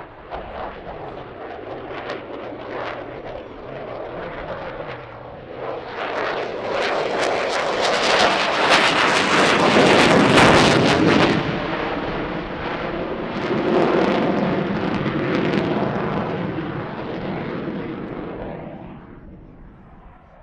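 An airplane passing by: its engine noise builds to a loud, crackling peak about halfway through, swells again a few seconds later, then fades away.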